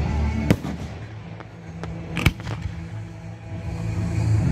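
Fireworks bursting: two loud bangs, about half a second and two and a quarter seconds in, with a few fainter cracks between them, over steady background music.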